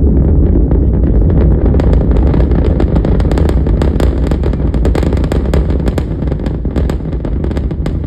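Rocket engine noise from a SpaceX Starship Super Heavy booster lifting off: a deep continuous rumble with a harsh crackling that builds in from about two seconds in.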